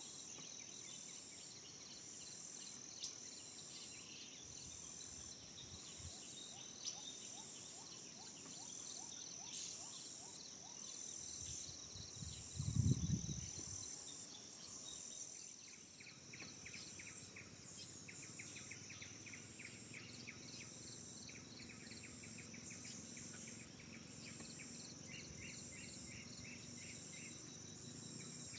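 Forest ambience: a chorus of insects gives a steady high buzz that pulses about twice a second, and runs of rapid bird chirps come in about halfway through. A brief low rumble a little before the middle is the loudest sound.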